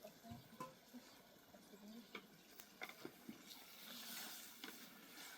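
Near silence with faint scattered clicks and a few soft, short chirps.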